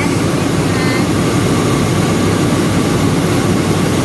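Rice milling machinery running, a loud, steady mechanical drone with no change in pace.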